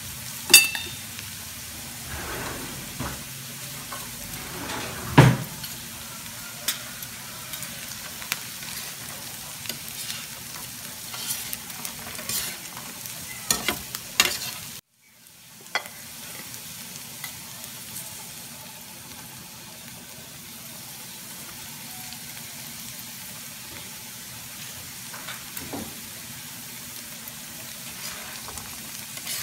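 Diced chicken, onion and bell pepper sizzling in a flat metal pan while metal spatulas stir and scrape through it, with sharp metal-on-pan clacks, the loudest about five seconds in. The sound drops out briefly about halfway through, then the steady sizzle carries on.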